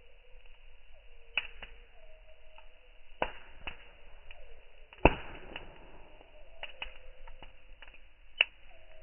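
Campfire wood crackling with irregular sharp pops, the loudest about five seconds in, over a faint whistle that slides down in pitch again and again.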